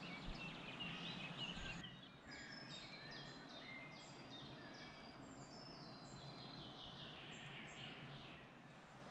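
Faint woodland birdsong over a steady hiss: scattered high chirps, then from about two seconds in a long run of short high notes that steps down in pitch.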